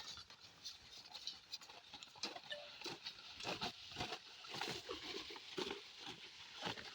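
Scattered light taps, clicks and knocks at an uneven pace, as of parts and tools being handled; the diesel engine is not running.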